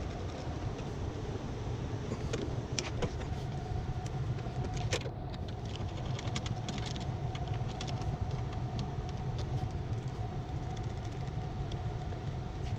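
A steady low machine hum with a faint steady higher tone, and scattered light clicks and metallic rattles, thickest in the first half.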